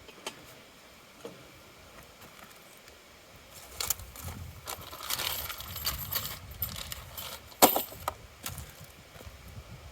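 Steel parts of a truck hitch game hoist being handled and fitted together: quiet at first, then a few seconds of irregular metal clinks and rattles with handling noise, and one loud sharp clank about seven and a half seconds in.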